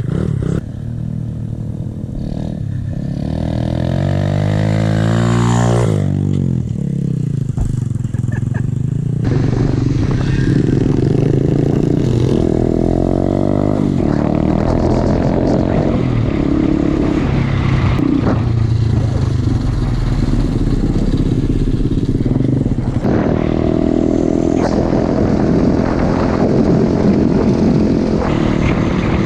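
Pit bike's small single-cylinder engine being ridden, its pitch climbing under throttle for a few seconds, dropping off sharply about six seconds in, then rising and falling repeatedly with throttle and gear changes.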